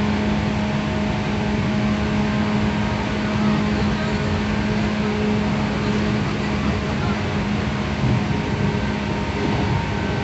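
JR West 117 series electric train running at steady speed, heard from inside the passenger car: an even rumble of wheels on rail with a steady hum.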